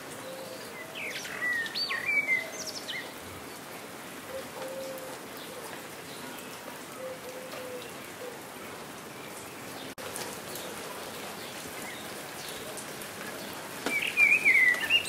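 Steady rain falling, with birds chirping: a cluster of quick, high gliding notes between one and three seconds in and a louder cluster near the end.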